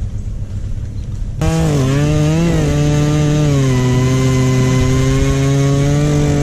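Stihl chainsaw cutting oak: after a low rumble, the saw throttles up sharply about a second and a half in. Its pitch drops a little and holds steady as it runs under load through the wood, then climbs again near the end as the cut finishes.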